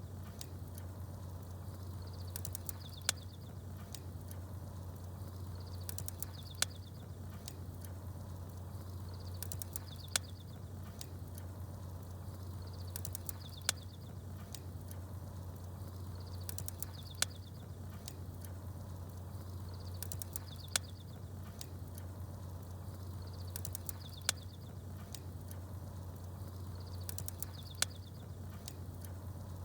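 Campfire crackling with small birds twittering: a sharp pop of the fire and a short high chirping phrase come back about every three and a half seconds, over a steady low hum.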